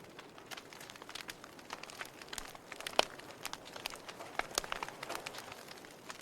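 Wood fire crackling, with irregular small snaps and pops and one loud sharp pop about three seconds in.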